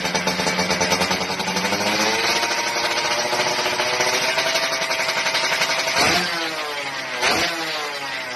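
Yamaha F1ZR's two-stroke single-cylinder engine running through an RTX racing exhaust. The revs rise about two seconds in and hold, then three quick throttle blips come in the last part, each dropping back in pitch.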